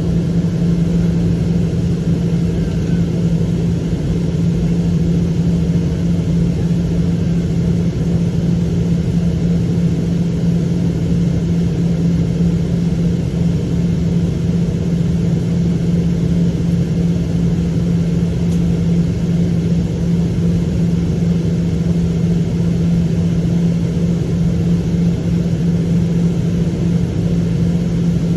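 Rolls-Royce Trent jet engines of a Boeing 777-200ER heard inside the passenger cabin: a loud, steady rumble with a strong low hum that holds without rising or falling.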